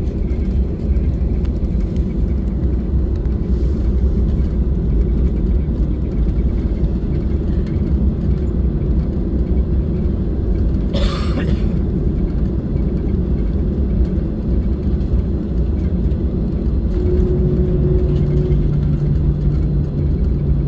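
Cabin noise aboard a Boeing 737-600 rolling on the ground just after landing: a loud, steady low rumble. There is a brief sharp noise about halfway through, and a low hum joins in near the end.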